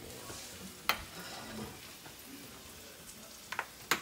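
Eggs frying in a pan on a gas burner, a steady sizzle. Sharp knocks of things set down on the counter cut through it, once about a second in and twice near the end.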